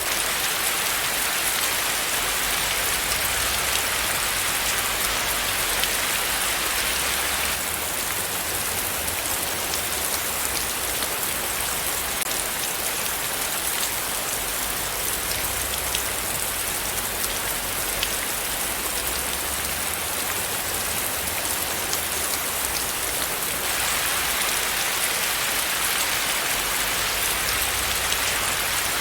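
Steady rain falling, a dense, even patter of drops. From about 8 s in until about 24 s the rain is a little softer and duller.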